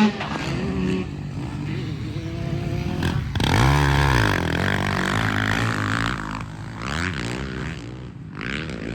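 Motocross dirt bikes running, with one bike's engine revving up and back down about three seconds in, the loudest moment, then fainter engine sound.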